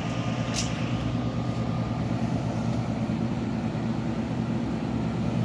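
Dry-curing refrigerator running with a steady low mechanical hum from its compressor and constantly blowing circulation fan. A light click comes about half a second in.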